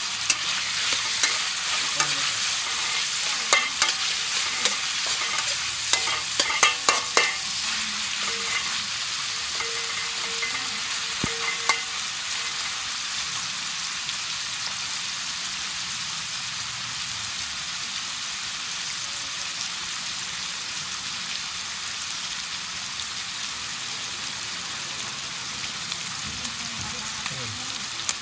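Pork pieces sizzling in oil and sauce in a wok. In the first twelve seconds or so a metal spatula knocks and scrapes against the wok several times as the meat is stirred; after that it is steady sizzling.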